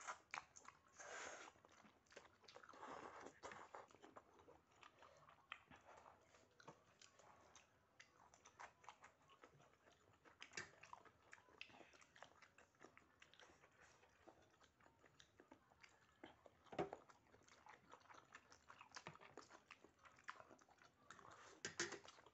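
Quiet close-up chewing: a mouth working through a mouthful of instant noodles and rice, many small smacking clicks with a sharper click about three quarters of the way through.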